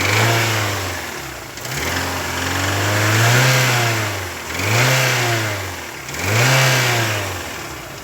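Fiat Uno car engine revved in about five throttle blips, its pitch rising and falling with each, carrying a top-end noise that the mechanic takes for a hydraulic lifter (tappet) or a worn camshaft.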